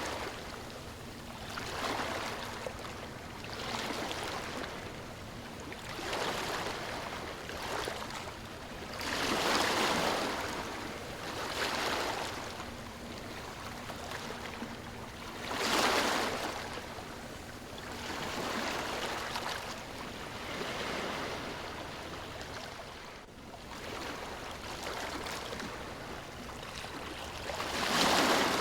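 Gentle ocean waves washing in and drawing back, one swell about every two seconds, with bigger waves about ten seconds in, around sixteen seconds and near the end.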